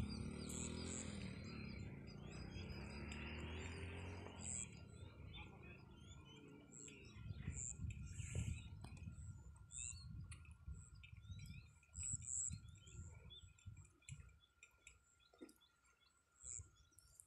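Small birds chirping faintly in scattered short calls, over intermittent low rumbling. A louder low noise fills the first four seconds, and a faint steady high whine runs on after it.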